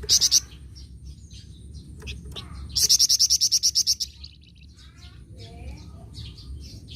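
A flamboyan songbird singing actively. It gives a short loud burst of high notes at the start, then a fast, loud high trill of about a dozen notes lasting over a second, with softer chirps and sliding whistles in between.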